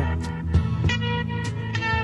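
Instrumental break in a 1960s folk-rock band recording: plucked electric guitar notes ring over bass and a steady drum beat.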